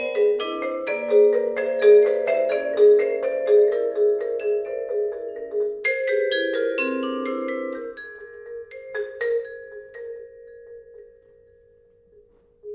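Vibraphone and two marimbas playing: quick, overlapping struck notes ring together for about six seconds, a fresh cluster of notes is struck around six seconds in, then the notes grow sparse and ring away to near silence near the end.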